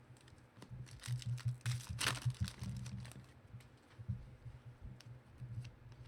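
Trading cards and foil pack wrappers being handled: light clicks and rustling, busiest about two seconds in, over a steady low hum.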